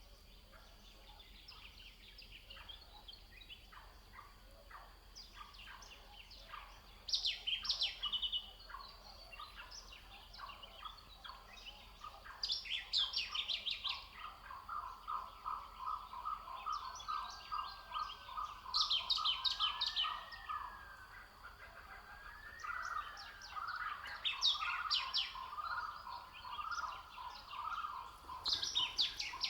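Wild birds singing: short high trilled song phrases repeat every few seconds. From about halfway through, a lower call of fast repeated notes runs alongside them.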